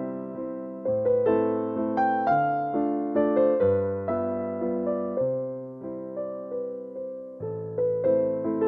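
Background music: a slow piano melody over chords, each note struck and left to fade, with a new chord about every second.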